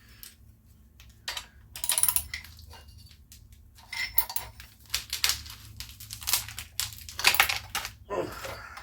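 Irregular metallic clinks and knocks of hand tools working on a Tecumseh small engine during teardown, a dozen or so sharp strikes with the loudest near the end, as a stuck part is worked loose.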